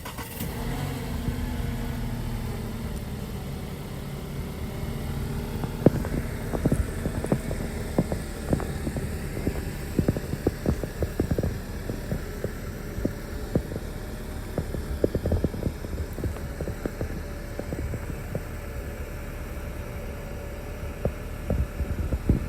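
2021 Volkswagen Arteon R-Line engine running at a steady fast idle just after a cold start. Many short, irregular sharp taps sound over the hum from about six seconds in.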